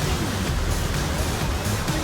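Steady roar of Niagara Falls' water, an even rushing noise with no break.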